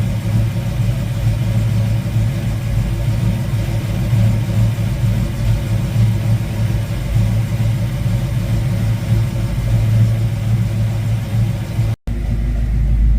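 V8 engine of a 1972 Ford Mustang Mach 1, fitted with a Crane 2040 cam, running steadily through a single 3-inch exhaust with a Black Widow Race Venom muffler, just after its first start following the rebuild. Near the end the sound drops out for an instant and comes back as a deeper, steadier rumble.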